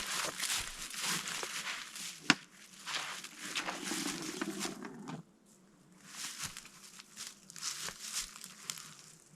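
Rustling and crinkling of gear being rummaged through and handled, with one sharp click a little over two seconds in. The rustling drops off about five seconds in and goes on more faintly after.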